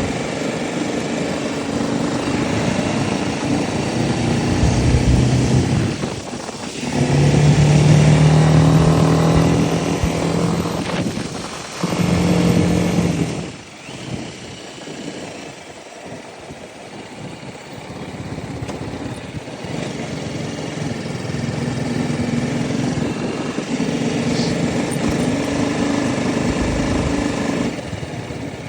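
BMW G310RR's single-cylinder engine running under way, its pitch and loudness rising and falling with the throttle. It drops off briefly twice, about six seconds in and again around thirteen seconds, and runs quieter for several seconds after the second drop.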